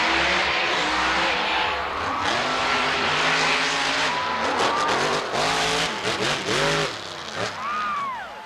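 Grave Digger monster truck's big V8 engine revving hard, its pitch rising and falling over and over, with a run of short, quick revs about five to seven seconds in before it drops back.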